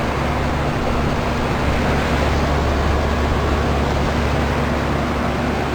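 A 2000 Lennox Elite Series 4-ton heat pump's outdoor unit running steadily in heat mode: a fan rush with a low compressor hum underneath. Its outdoor coil is frozen over and it has not gone into defrost.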